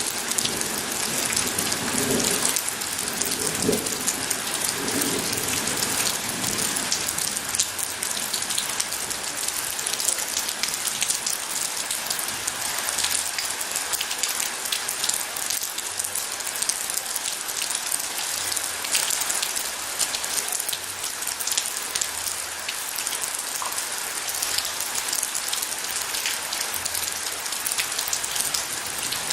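Steady heavy rain falling, a dense patter of drops striking a surface. A low rumble of distant thunder fades out over the first few seconds.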